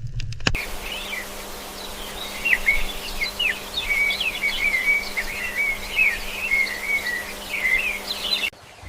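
Small birds chirping busily, rapid short high calls over a steady low hum, cutting off abruptly near the end.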